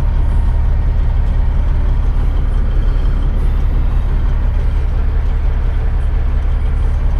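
Semi truck's diesel engine running with a steady low rumble, holding even with no revving or change.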